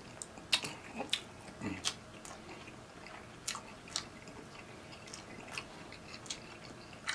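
Close-miked chewing of a mouthful of soft sub sandwich, with irregular wet mouth clicks and smacks, busiest in the first couple of seconds.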